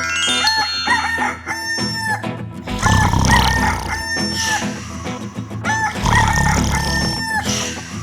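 Rooster crowing several times, over background music.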